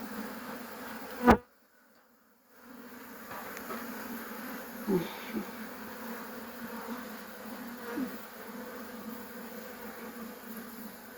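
Honeybees buzzing steadily around an open, smoked hive, with single bees passing close by as brief rising and falling whines. A sharp knock about a second in is followed by a drop-out of about a second before the buzzing resumes.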